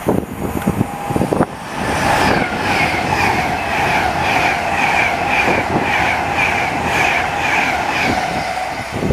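Train running past on the rails, with a steady drone and a rhythmic high-pitched wheel note repeating about twice a second, which builds up about a second and a half in.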